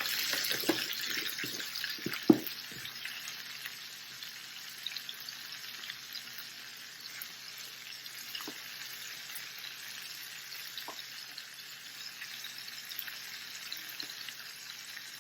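Onions, bell peppers and garlic sizzling in hot olive oil: the sizzle is strongest just as the garlic goes in and settles over the first few seconds into a steady frying. A few utensil clicks against the pan come in the first seconds, the sharpest about two seconds in.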